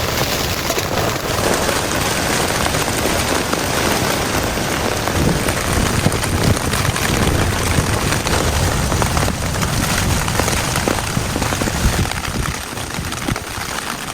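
Heavy rain falling hard, a loud, dense hiss of drops with many small close hits.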